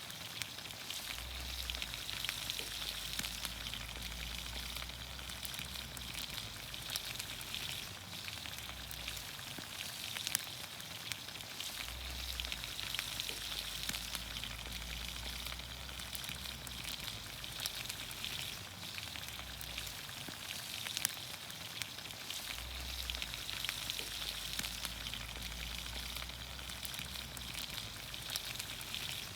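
Vegetables frying in olive oil over a campfire: a steady sizzle thick with fine crackles, and an occasional louder pop.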